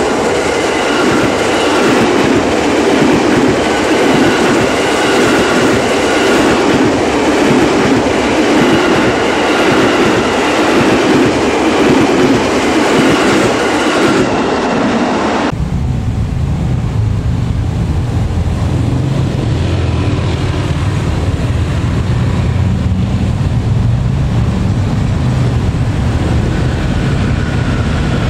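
KAI Commuter electric commuter train running past close by: a loud steady noise of wheels on rail with faint steady tones above it. About halfway through, the sound cuts abruptly to a steady low rumble.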